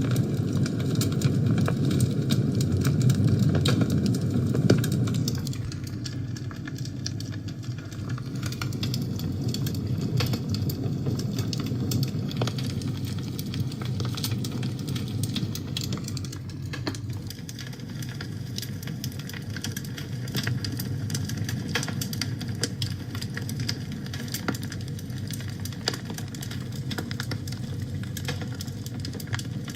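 Wood fire burning in a fireplace: a steady low rumble of flames with many small, sharp crackles and pops, somewhat louder for the first five seconds or so.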